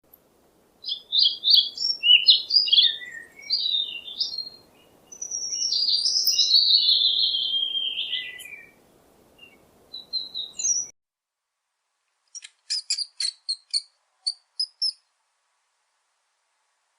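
A bird singing a run of varied high chirps and warbles, with a faint background hiss that cuts off suddenly about eleven seconds in. After a short silence comes a separate quick series of short high chirps with clicks.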